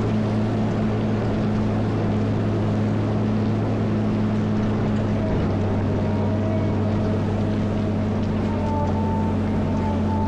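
Cat 140M motor grader's diesel engine running steadily at an even speed, a constant low hum.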